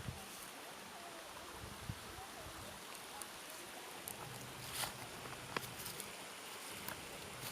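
Steady hiss of a stream running through a rocky canyon, with scattered light clicks and taps over it.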